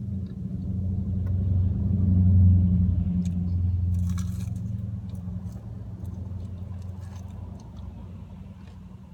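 A motor vehicle's engine running with a steady low hum that swells to its loudest two to three seconds in and then slowly fades. A crunching bite of food is heard about four seconds in, with a few softer chewing clicks.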